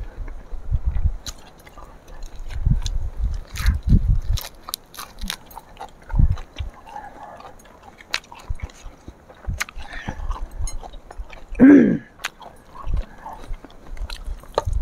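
Close-up eating sounds: biting and chewing, with scattered crisp clicks of crunchy food and repeated dull low thumps. A brief hummed vocal sound comes about twelve seconds in.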